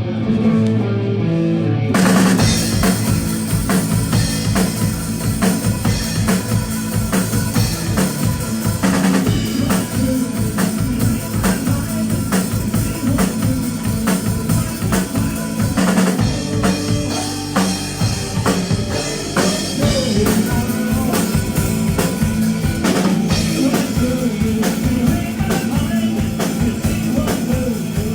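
Live rock band playing: a guitar part alone at first, then the full drum kit comes in about two seconds in, with bass drum, snare and rimshot hits under the guitar.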